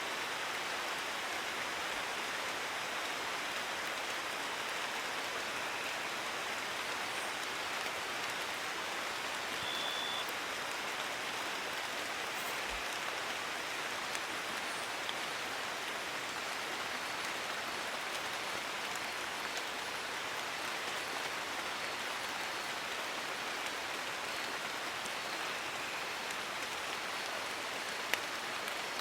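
Steady rain falling, an even hiss with no let-up and one small click near the end.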